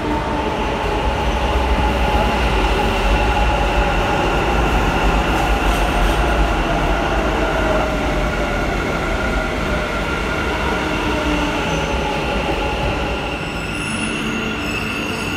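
Bangalore metro electric train pulling into the platform: a steady low rumble with a motor whine that falls in pitch as it slows, loudest a few seconds in and easing off toward the end.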